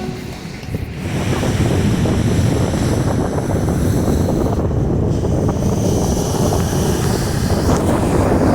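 Sea surf washing onto the shore, with wind rumbling on the microphone. It swells up about a second in and then holds steady.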